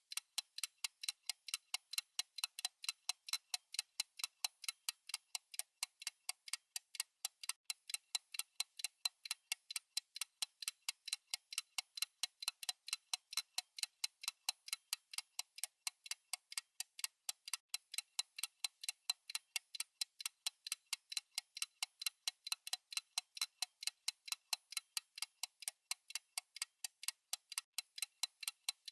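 Countdown timer's fast clock-tick sound effect: sharp, high, evenly spaced ticks at a quick steady pace.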